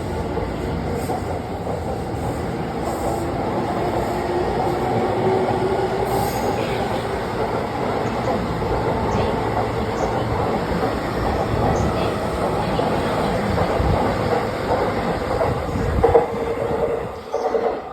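Joban Line electric train pulling out of the station, a steady rumble of wheels on rail with a faint tone rising slightly as it accelerates. Near the end it peaks once, then the sound falls away sharply.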